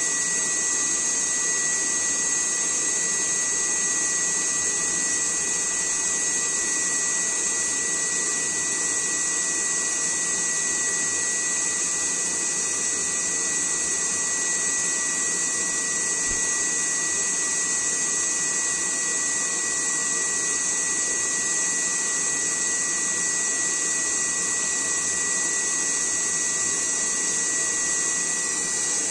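The small electric fan motor of a cheap homemade air cooler runs steadily. It gives a constant high-pitched whine over an airy hiss, with no change in speed.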